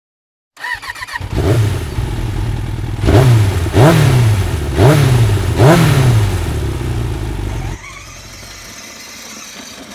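Motorbike-style engine sound: it starts, then revs up four times in quick succession, each a rising sweep, and cuts off abruptly, leaving a quieter steady hum.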